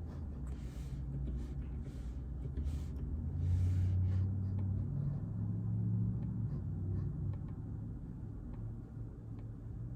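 Scattered soft keystrokes on a JJK84 keyboard with Outemu Silent Peach silent linear switches: muted clicks a few times a second. In the first few seconds there are short scratchy rustling strokes. A steady low rumble runs underneath.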